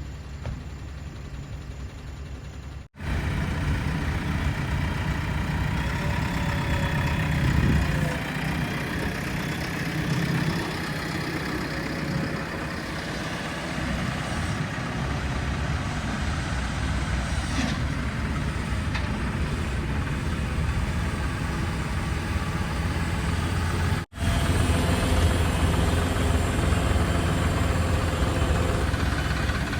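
Heavy diesel engine of a backhoe loader running under working load, rising and falling in pitch. The sound cuts out abruptly twice.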